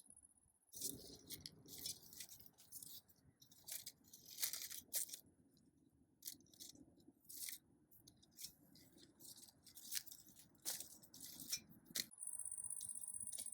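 Dry black bean pods and stalks crackling and rustling in irregular bursts as they are handled and picked by hand, stopping about twelve seconds in. A steady high-pitched buzz is faint at the start and louder near the end.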